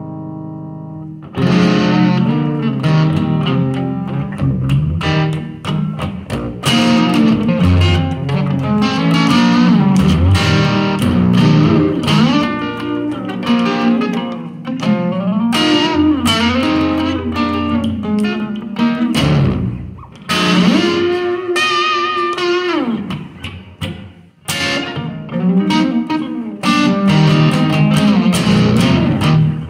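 Electric guitar playing through effects with some distortion: a held chord, then busy picked notes and a pitch-bending passage about two-thirds of the way through, briefly dropping out near the end.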